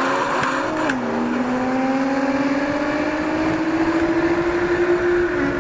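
Car engine at full throttle in a street roll race. The engine note drops at a gear change about a second in, climbs steadily through the next gear, and drops again at another shift near the end.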